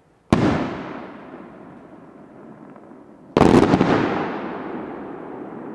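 Two aerial firework shells bursting at close range, the first about a third of a second in and the second about three seconds later as a few quick cracks. Each bang is followed by a long rolling echo that slowly fades.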